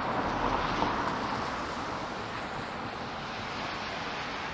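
Street traffic on wet pavement: a steady hiss of car tyres on the wet road, a little louder in the first second and then easing slightly as a vehicle passes.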